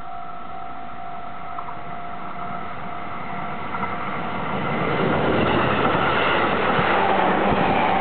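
A freight train hauled by a JR Freight EF200 electric locomotive draws near and passes. Its wheel-on-rail noise swells from about four seconds in and stays loud. At the start, a steady high tone fades away.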